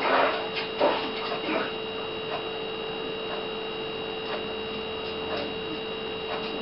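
Steady electrical hum made of several fixed tones, one low and two high, with a few soft knocks and handling rustles in the first second and a half.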